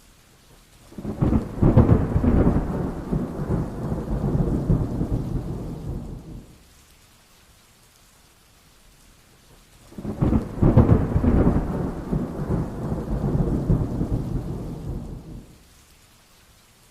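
Two rolls of thunder, each rumbling for about five seconds, one starting about a second in and the other just past the middle; the two have nearly the same shape. Faint rain hiss fills the gaps between them.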